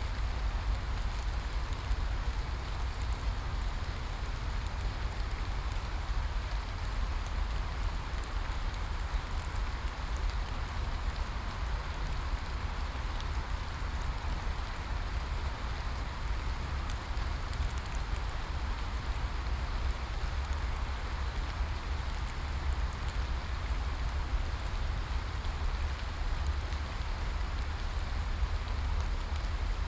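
Steady rain falling on a surface, an even hiss of drops with many small individual drop ticks and a deep rumble underneath.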